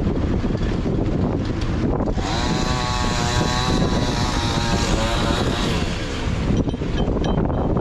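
Two-stroke chainsaw running and cutting wood. Its engine pitch rises and falls as it revs under load, most clearly in the middle of the stretch.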